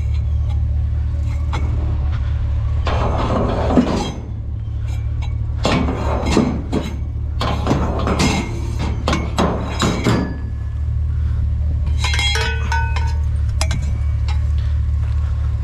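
Scrap metal pieces clanking and rattling as they are handled and loaded, with sharp clinks and a few short metallic rings, over a steady low hum.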